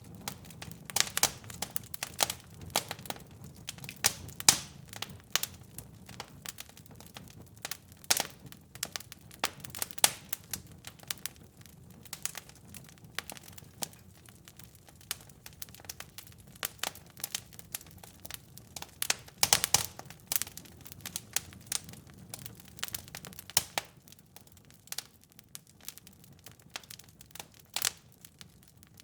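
Fire in a fireplace crackling, with irregular snaps and sharper pops several times a second, over a soft low rumble that fades out near the end.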